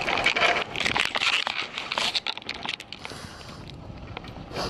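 Snow crunching in dense, irregular crackles that thin out after about three seconds.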